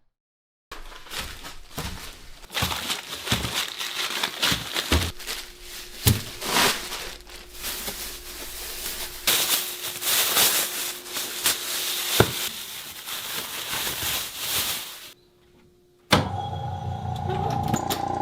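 Workshop handling noise: a busy run of knocks, clicks and clatter that lasts about fourteen seconds and stops suddenly. After a second of silence, a steady hum made of several tones sets in near the end.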